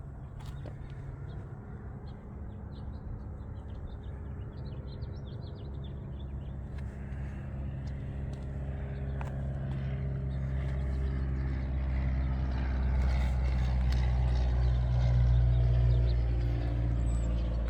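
Car engine running steadily, growing louder through the second half. Birds chirp in the first few seconds.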